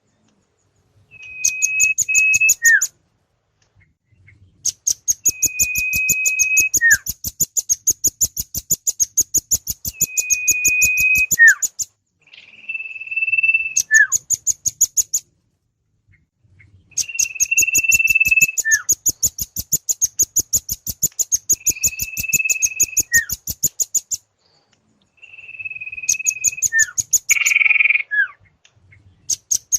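Bird-lure birdsong recording of rambatan (velvet-fronted nuthatch) and sirtu calls: bursts of rapid high chips, about five a second, alternate with a held whistle about a second long that ends in a short falling note. The pattern repeats over and over like a loop.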